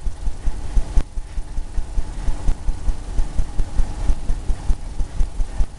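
A blender brush working oil paint on a canvas on an easel, giving a rapid, irregular run of low thumps and soft scrubbing, several strokes a second.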